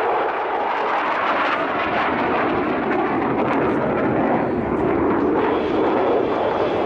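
Jet noise from the XF-2 test fighter's single turbofan engine as it flies its display, loud and steady without a break.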